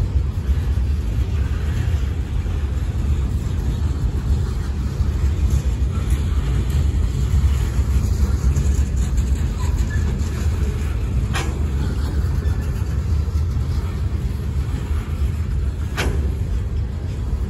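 Boxcars of a CSX freight train rolling past, a steady low rumble of steel wheels on rail. Two sharp clanks stand out in the second half.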